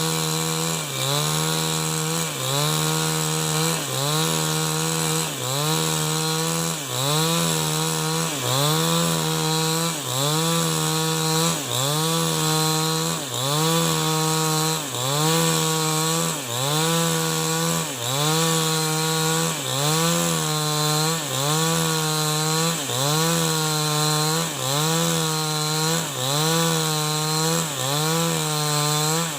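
New West 788 two-stroke chainsaw running under load, rip-cutting an avocado log lengthwise. Its engine pitch dips and recovers in a steady rhythm, about once every second and a half.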